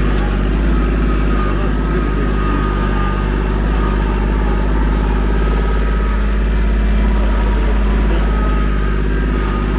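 Vehicle engine running steadily at low speed, heard from aboard, with a faint high whine riding over its hum.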